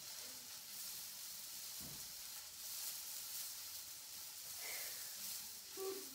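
Hula hoops spinning around waists, giving a steady faint swishing hiss, with a soft thump about two seconds in.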